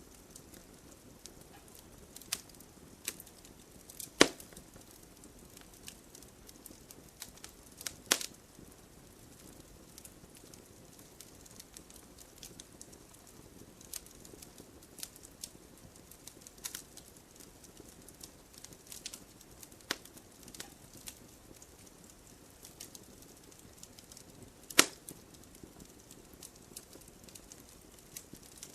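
Firewood burning in a fireplace, crackling: scattered small snaps over a faint steady hiss, with three louder pops about four seconds in, about eight seconds in, and near the end.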